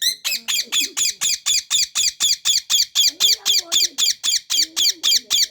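Parrot screeching a rapid, even series of shrill calls, about five a second, without a break.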